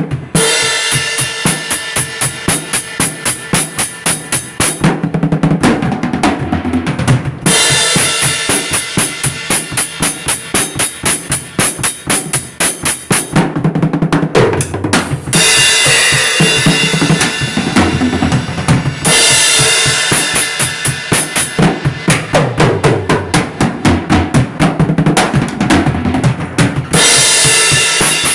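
Drum kit played in a steady rhythm of about four strikes a second, with bass drum and snare, and cymbals washing in and out in stretches.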